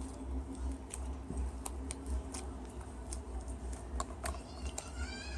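Irregular light clicks and taps, a few to each second, over a steady low hum. Near the end, a short rising tone.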